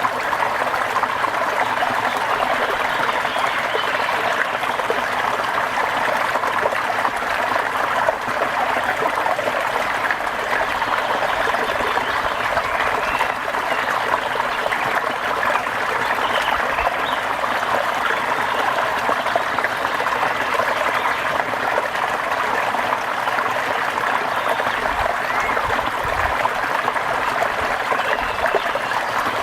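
Steady rain, an even, unbroken rush of falling water.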